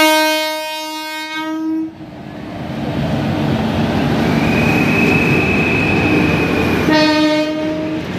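Indian Railways WAP-4 electric locomotive sounding its horn in one blast of about two seconds, then the rumble and clatter of the locomotive and coaches passing close by, and a second, shorter horn blast near the end.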